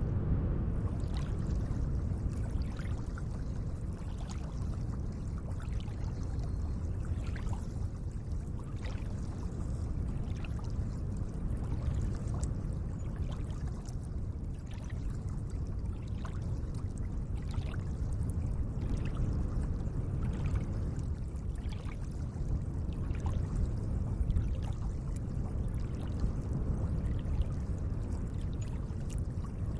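Gentle lake water lapping and trickling: a steady low wash with frequent small, irregular plinks of splashing droplets.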